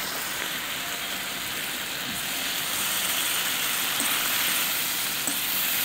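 Sliced onion rings sizzling steadily as they fry in butter in a skillet.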